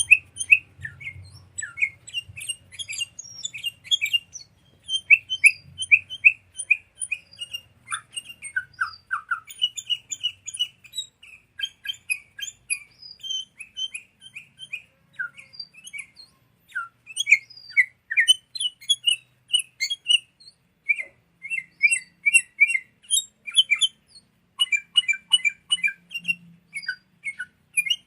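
Sooty-headed bulbul (kutilang) song: a continuous, rapid run of short chirping notes with brief pauses between phrases, as used in a lure recording for training caged birds.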